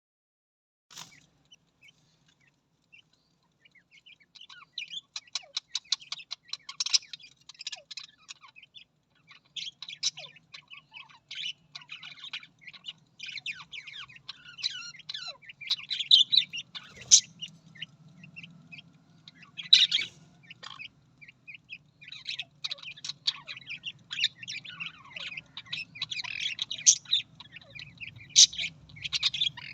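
Budgerigars chattering: a dense stream of rapid, high chirps and warbles, starting a few seconds in and running on without a break, with a faint low hum underneath.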